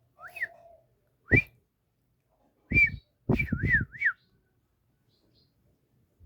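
Pet parrot whistling: a short rising whistle, a sharp whistle about a second later, another near three seconds, then a wavering whistle that dips and rises three times.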